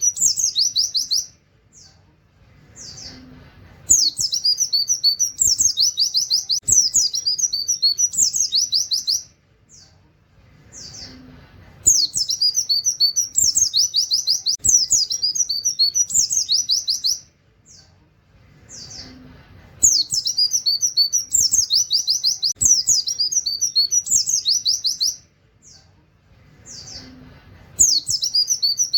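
White-eye (pleci) singing a fast, high twittering song with rapid 'wit wit' shots and canary-like runs, in phrases of about five seconds separated by short pauses with a few faint notes, repeating at even intervals.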